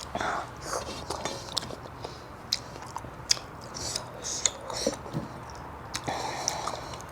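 Close-miked eating sounds: a person chewing and biting food, with scattered sharp little mouth clicks and smacks.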